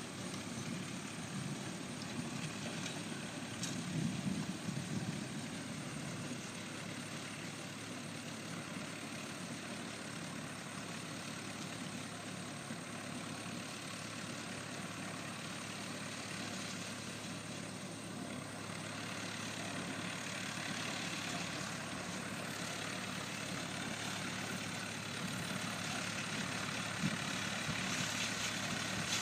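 Antique baler running steadily with the engine that drives it, a continuous mechanical rumble with a low, even hum, growing slightly louder near the end.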